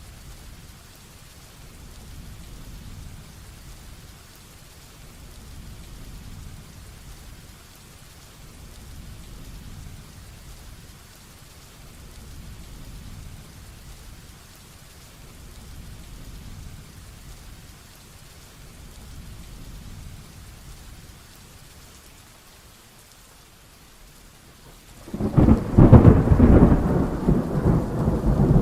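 Heavy rain falling steadily under low, swelling rumbles of thunder, then a sudden loud thunderclap about 25 seconds in that rolls on.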